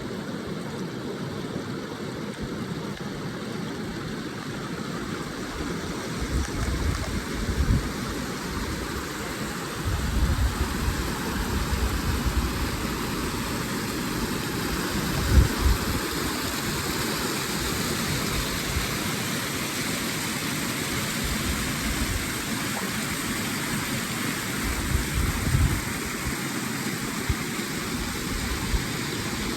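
Steady rush of a river's flowing water, with low rumbles swelling now and then.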